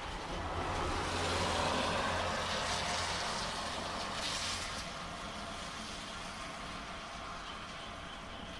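A vehicle passing by: a low engine hum and road noise swell over the first two seconds and fade away by about halfway through, over steady rain. Frogs are calling faintly near the end.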